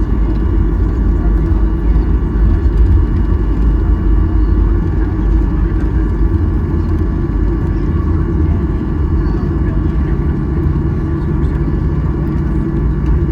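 Steady low rumble with a constant hum inside the cabin of a Boeing 737-800 after landing, with indistinct passenger voices underneath. A lower hum joins about two-thirds of the way through.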